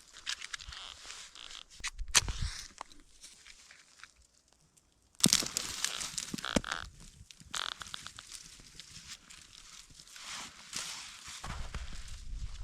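Irregular crunching and rustling in snow, broken by a near-silent pause about four seconds in, then starting again abruptly and louder.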